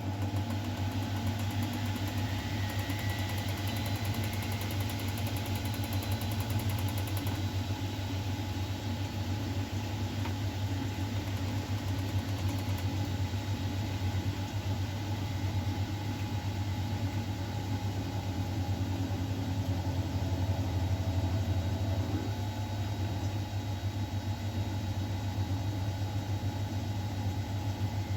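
Miele Novotronic W912 washing machine running, a steady motor hum with a faint whine above it.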